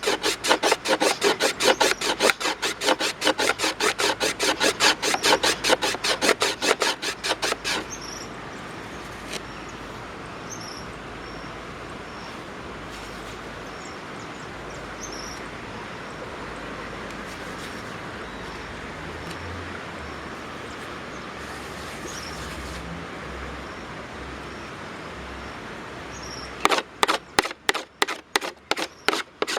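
Rapid rhythmic rasping strokes of a tool working wood, about five strokes a second, stopping about eight seconds in. A steady outdoor hiss with a few faint high bird chirps follows, and the rasping strokes start again near the end.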